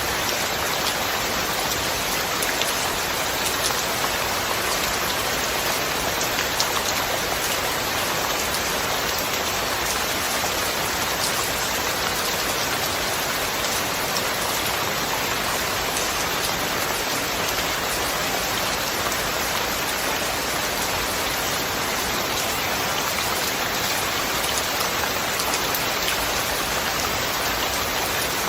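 Steady heavy rain falling, an even hiss with many small drop taps and no thunder.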